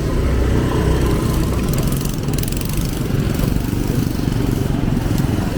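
Street traffic: small motorbike engines running close by, a steady rumble mixed with general road noise.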